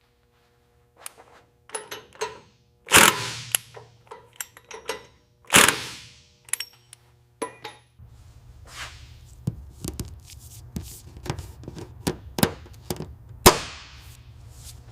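Workshop assembly sounds: a string of metallic clicks, knocks and clunks at irregular intervals, a few louder ones trailing off in a short hiss. About eight seconds in, a steady low hum starts under the continuing clicks.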